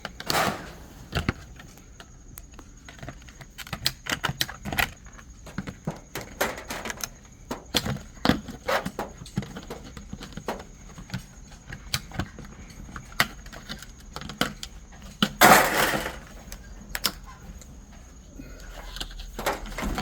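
Handling and cutting of a vinyl siding corner piece: many scattered small clicks and knocks, with one brief loud rasping rush about fifteen seconds in.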